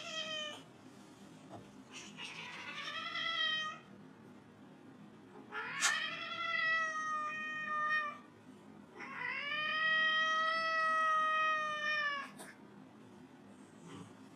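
Cat yowling in long drawn-out meows. Three calls come one after another, the later two each lasting two to three seconds and held at a level pitch.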